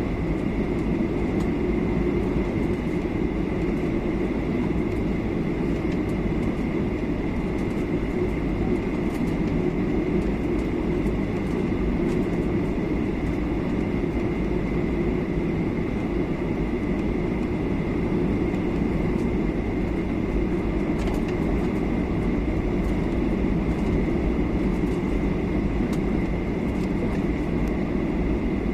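Steady cabin noise inside a Boeing 737-800 descending on approach: a low rumble of engines and airflow with a thin, steady high whine over it.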